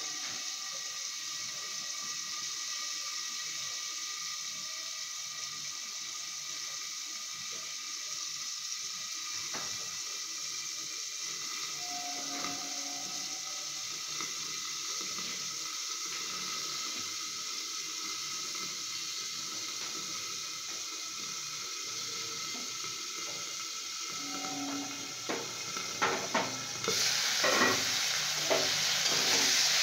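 Flat beans frying in oil in a covered wok, a steady soft sizzle. Near the end the lid comes off with a few metal clinks and the sizzle turns much louder.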